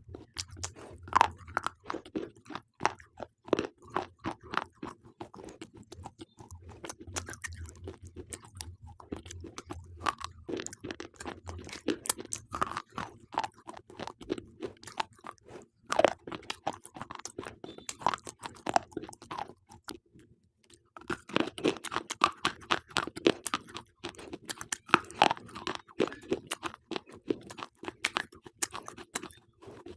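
Slate pencils being bitten and chewed: a dense run of sharp, dry crunches with a short pause about two-thirds of the way through.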